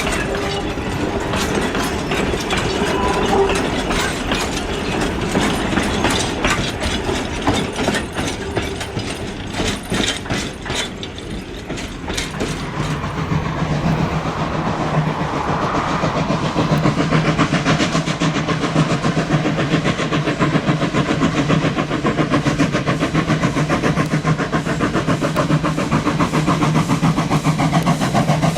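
Railway carriages rolling past, their wheels clicking rapidly over the rail joints. About halfway through, the clicking fades and a steady engine hum takes over.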